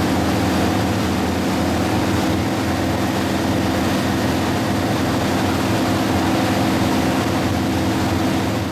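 Motorboat engine running steadily under way: an even hum with a rushing noise of wind and water over it.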